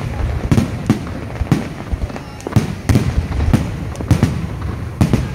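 Fireworks display: aerial shells bursting in an uneven run of loud bangs, about eight in five seconds, each trailing off in a short echo.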